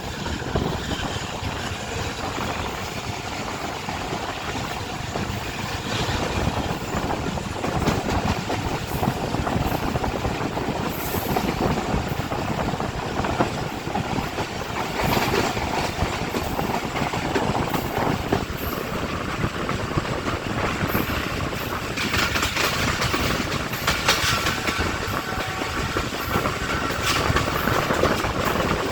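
Passenger train running on the track, heard from aboard a coach: wheels clattering over rail joints with a steady rumble. A thin, steady squeal rises over the last several seconds as the train nears its stop.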